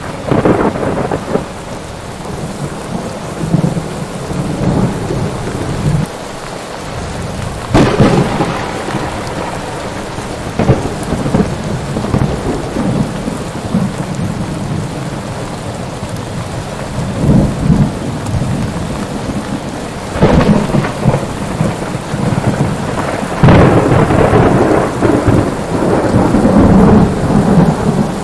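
Thunderstorm: steady heavy rain under repeated thunder, with a sharp crack about eight seconds in, another near twenty seconds, and long rolling rumbles through the last few seconds.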